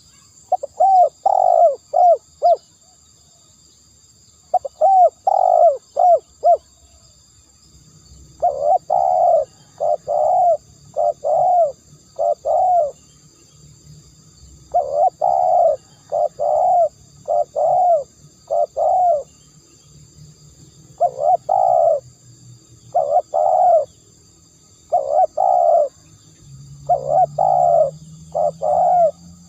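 Spotted dove cooing: repeated phrases of three to five coos every few seconds, a recorded call of the kind used as a lure. Faint steady high-pitched tones run underneath.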